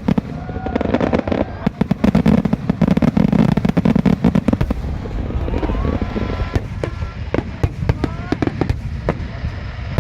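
Aerial fireworks bursting in a rapid series of bangs and crackling pops, with a heavy low rumble in the first half. Several short whistling tones, some of them rising, come in the second half.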